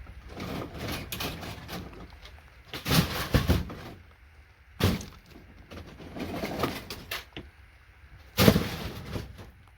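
Clattering and knocking of scrap circuit boards and components being handled, with loud sharp knocks about three, five and eight and a half seconds in.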